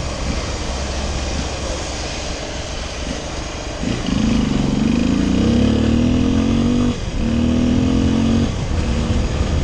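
Small motorcycle engine pulling away, its pitch climbing from about four seconds in, with a short break near seven seconds as it shifts gear, then easing off near the end. Wind and road noise rush throughout.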